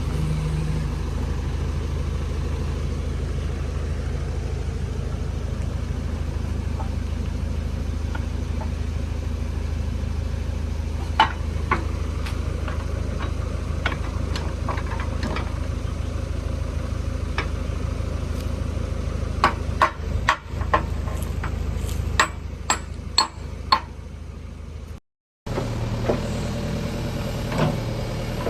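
JCB 3DX backhoe loader's diesel engine idling steadily, with sharp metallic knocks from the bucket pin work: a couple midway, then a quick run of them near the end.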